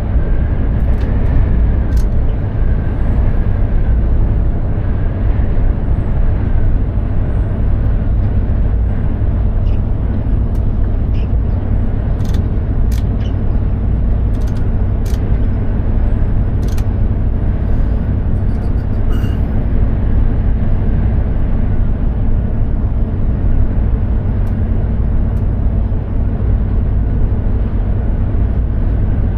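Mercedes-Benz Actros 2763 truck under way, its inline-six diesel and the road noise making a steady, loud low rumble. A few short sharp clicks come in the middle.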